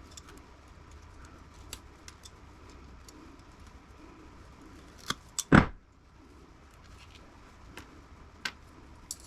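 Scattered light clicks and snips of hand tools and small metal parts being worked apart, with a louder sharp snap about five and a half seconds in.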